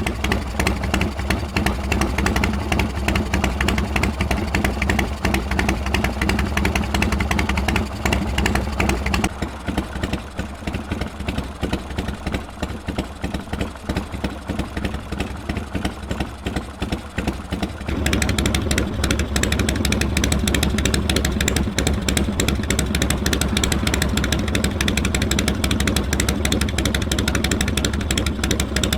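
Harley-Davidson FXR V-twin engine running steadily. The sound turns duller with less treble about 9 seconds in, then comes back fuller about 18 seconds in.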